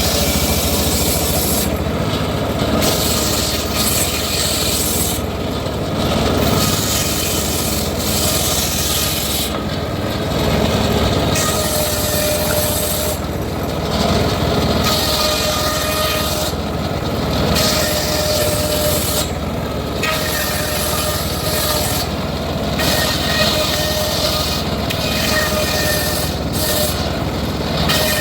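Homemade circular sawmill running and its blade cutting teak, over a steady machine hum. The high-pitched cutting hiss swells and drops back every few seconds as the wood is fed through in passes.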